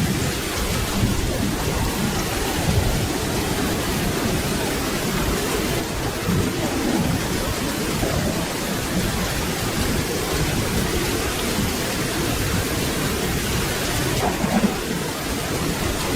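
Steady rain with low, rolling thunder rumbling underneath.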